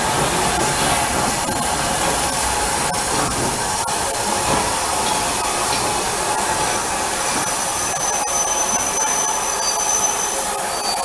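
Steady loud hiss of steam escaping from a steam locomotive. A thin, high, faint tone sounds through its second half.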